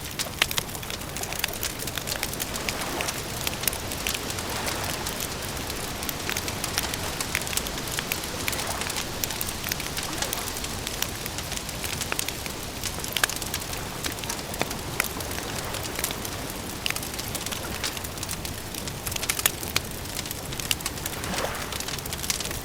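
Wood fire crackling, with many small sharp pops and snaps over a steady hiss.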